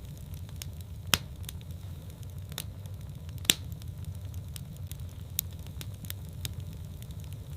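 Fireplace fire crackling: scattered sharp pops and ticks over a steady low rumble, with two louder pops about one and three and a half seconds in.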